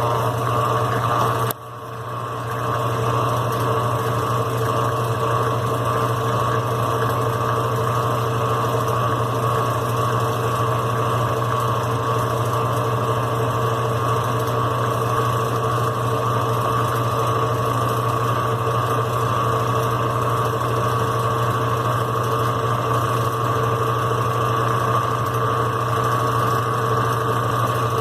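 Brastemp BWQ24 washing machine running with a steady motor hum. The hum cuts out briefly about a second and a half in, then builds back up and holds steady.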